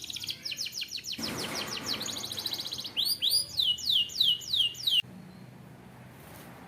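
Canary singing: a fast, rattling trill, then a run of about six loud, falling whistled notes that stops abruptly about two-thirds of the way through. A brief noise sounds under the trill about a second in.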